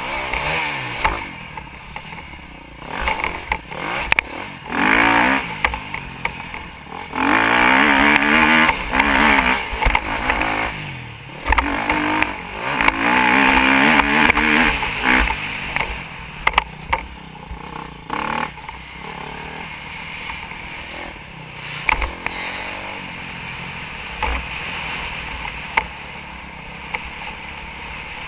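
Motocross bike engine revving up and down while riding, with loud full-throttle stretches about seven and twelve seconds in, then running more evenly near the end.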